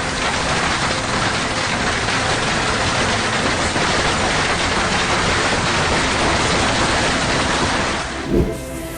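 Steady, loud rushing hiss of heavy storm rain, cutting off about a second before the end, followed by a single low thump.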